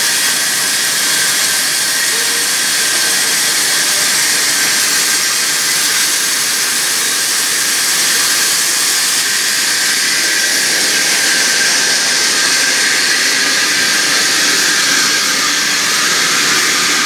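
Sawmill saw cutting through timber: a loud, steady, high-pitched hiss that runs on without a break.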